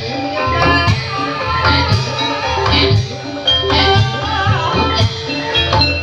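Javanese gamelan-style ensemble music for an ebeg horse dance: ringing metallophone tones over a steady drum beat.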